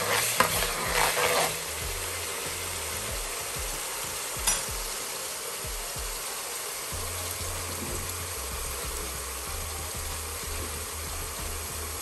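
Sliced onions and spiced masala frying in oil with a steady sizzle. For about the first second and a half, a metal spoon scrapes and stirs the onions in a stainless steel pot. A single sharp click comes about four and a half seconds in.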